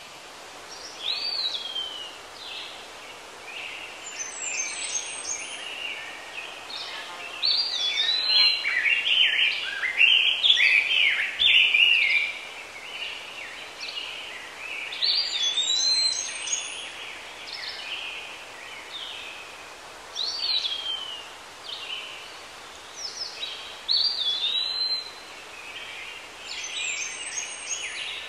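Songbirds singing, with chirps and repeated swooping whistled phrases over a steady background hiss; the birdsong is busiest from about a third of the way in to the middle.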